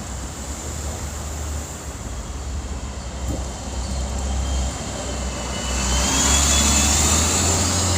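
Road traffic: a steady low rumble, with a vehicle's tyre and engine noise swelling and growing louder in the second half as it approaches.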